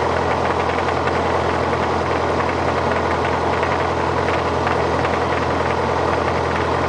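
Light airplane's piston engine running steadily at low power, a constant drone heard from inside the cockpit.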